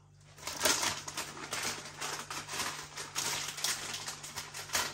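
Crunchy maize snacks (Snackrite Saucy Nibbley Nobblies) being chewed close to the microphone: an irregular run of crisp crunches starting about half a second in.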